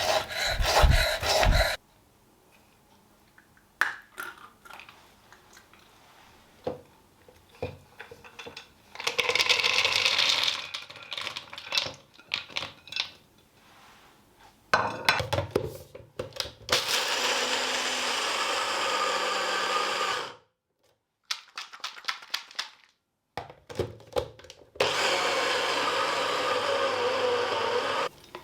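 A small electric motor appliance running in three short bursts: one of about a second and a half, then two of about three and a half seconds each. Each burst starts and stops abruptly, with light clicks and handling knocks between them.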